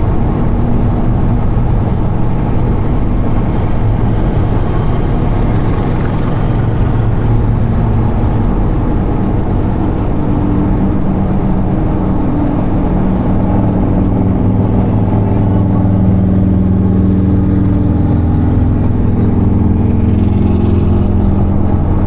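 Semi-truck diesel engine running, heard from inside the cab as a loud, steady low drone, its pitch shifting slightly in the second half.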